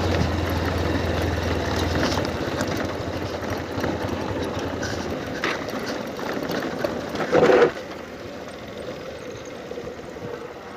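Motorcycle engine running at low revs with a fast, even rattle. About two seconds in, its low hum drops away as the bike is switched off, and the level then fades gradually. A short, louder sound comes near three-quarters of the way through.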